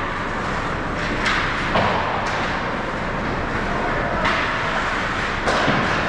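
Ice hockey game sounds in a rink: a steady hiss with about five sharp knocks scattered through, typical of sticks, puck and boards.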